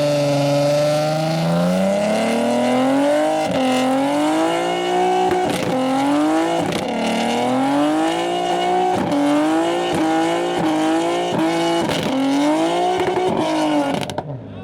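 Car engine revving hard and repeatedly, its pitch climbing and falling back about once a second, before cutting off sharply near the end.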